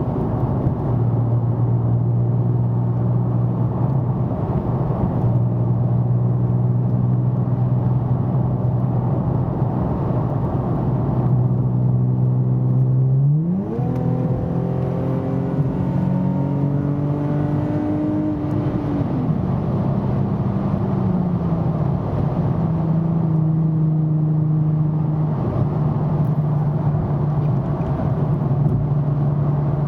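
2009 Nissan 370Z's 3.7-litre V6 through a Fast Intentions exhaust with 18-inch carbon-fibre resonators and non-resonated high-flow cats, heard from inside the cabin with the windows up. It holds a steady cruising drone, then partway through the seven-speed automatic kicks down and the revs jump sharply. It climbs under acceleration for a few seconds, then drops back in two upshifts to a steady drone again.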